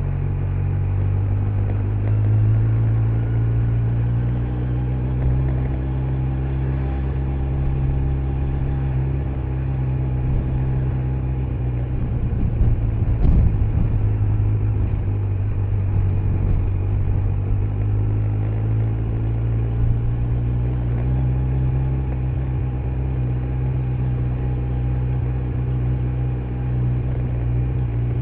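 Kawasaki Z900's inline-four engine running under way on its stock exhaust, its pitch rising and easing gently with small throttle changes. There is a brief thump about halfway through.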